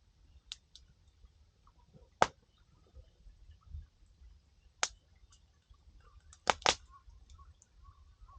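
Wood campfire crackling, with a few sharp pops from the burning firewood: the loudest about two seconds in, and two close together near the end, with faint ticks between.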